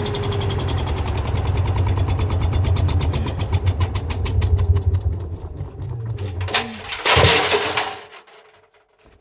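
Washing machine motor and drum running with a steady hum and a regular rhythmic clatter that gradually slows as the drum winds down. About seven seconds in there is a brief loud rushing noise, after which the machine falls nearly quiet.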